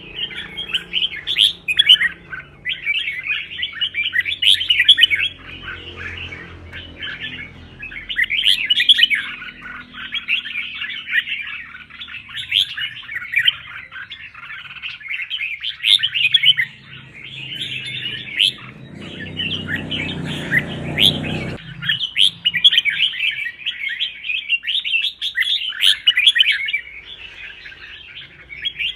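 Red-whiskered bulbul singing in quick, looping whistled phrases with short pauses between bouts, the lively competition-style song used to fire up other bulbuls. A low rumbling noise runs under the song for a few seconds past the middle and cuts off suddenly.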